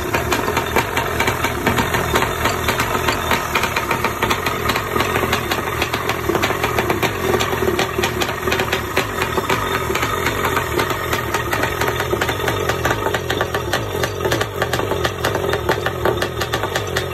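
Kawasaki 650 X2 two-stroke twin engine running steadily, with a rapid, even firing pulse.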